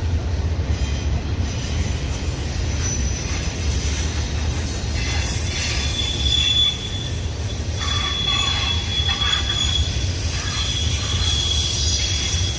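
Union Pacific intermodal freight train rolling past with a steady low rumble. From about five seconds in, its wheels squeal at a high, thin pitch, on and off.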